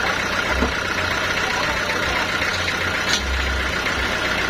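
Sawmill machinery running steadily: a motor's hum over a low rumble that swells and fades, with one sharp click a little after three seconds in.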